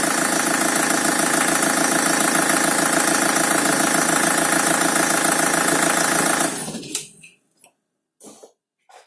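BMW M47 two-litre diesel engine, a newly fitted replacement with new timing chains, idling steadily, then shut off about six and a half seconds in and running down to a stop within about half a second. A few faint knocks and clicks follow.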